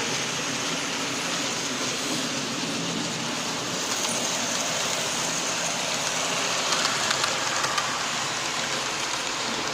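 Hornby 00 gauge model trains running on the layout's track: a steady whirring rattle of small electric motors and wheels on rail, with a few faint clicks about seven seconds in.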